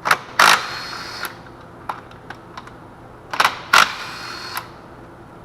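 Two pairs of sharp metallic clinks about three seconds apart, each pair followed by a short fading ring, as bolts and tools are handled while the upper intake manifold is unbolted.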